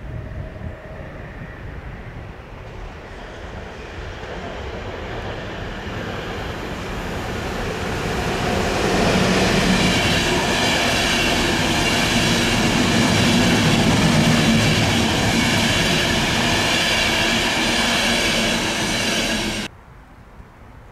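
ÖBB passenger train passing close by: wheels and coaches running over the rails with a steady high whine on top. The sound grows louder over the first several seconds, holds, then cuts off abruptly near the end.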